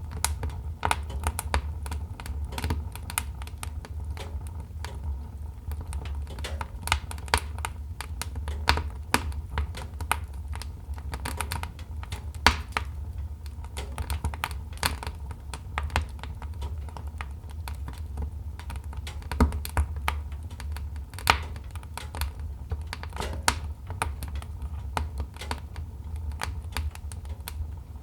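Wood fire crackling in a fireplace: dense, irregular pops and snaps of varying loudness over a steady low rumble.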